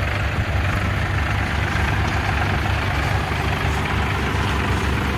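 Diesel tractor engines running steadily at low revs, about 1000 RPM, while the tractors drive in high first gear, with an even, pulsing low rumble.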